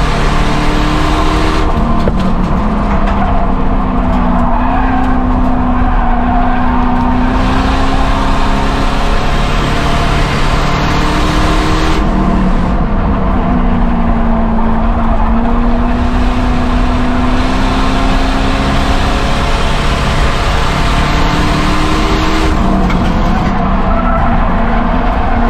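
Ford Crown Victoria V8 race car running hard under racing load. Its engine note dips and then climbs again about every ten seconds.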